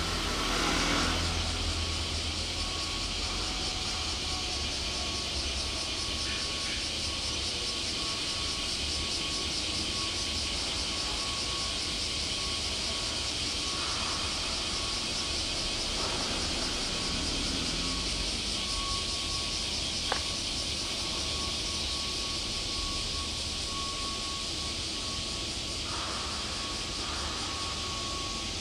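Steady outdoor background noise: a high, even hiss over a low rumble. A faint steady tone comes and goes, and there is one sharp click about twenty seconds in.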